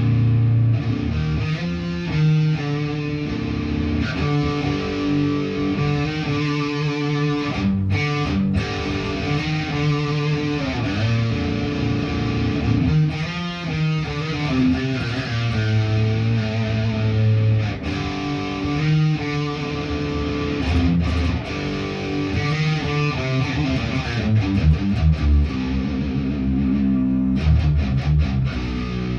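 Guitar being played without a break, a continuous run of changing chords and notes.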